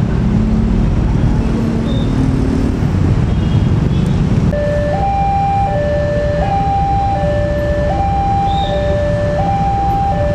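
Low rumble of a train at a railway level crossing, which drops away about four and a half seconds in. A two-tone electronic crossing warning alarm then starts, alternating a higher and a lower tone about every three-quarters of a second.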